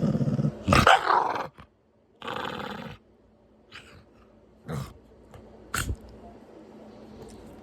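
A pet dog making a string of short grunting or growling vocal noises. The loudest comes about a second in, with smaller ones every second or so after, fading out after about six seconds.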